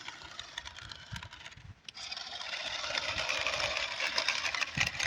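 Small electric motor of a toy monster truck whirring as its wheels spin and dig into sand. It cuts out for a moment about two seconds in, then runs again louder.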